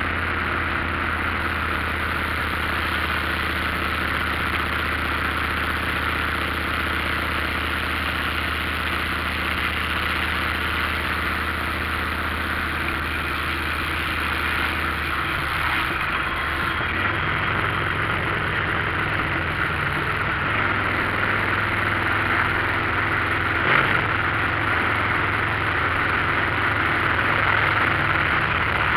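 Motorcycle engine running steadily under road and wind noise; its note shifts about halfway through, with a single click near the end.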